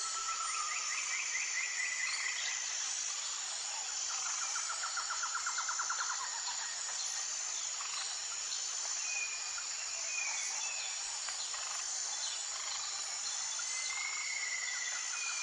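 Nature ambience: a steady, high-pitched insect chorus, with birds calling over it in several rapid trills and a few short whistled notes.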